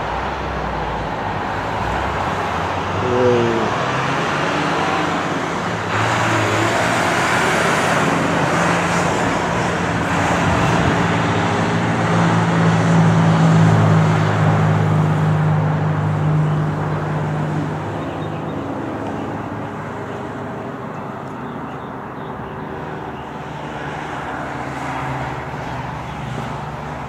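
Road traffic noise, a steady wash of passing cars. A louder vehicle's engine drone builds about six seconds in and fades after about eighteen seconds.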